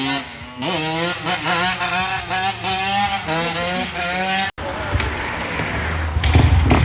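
Dirt bike engines revving, the pitch climbing in repeated short pulls. There is an abrupt cut about four and a half seconds in, after which a louder engine revs near the end.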